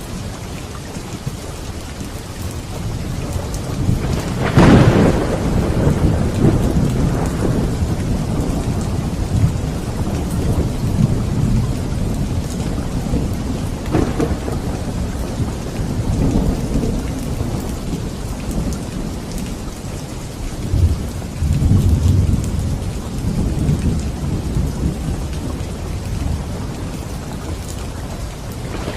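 Steady rain in a thunderstorm, with a sharp thunderclap about four seconds in that rolls into a low rumble, another crack of thunder about halfway through, and further low rumbles near the end.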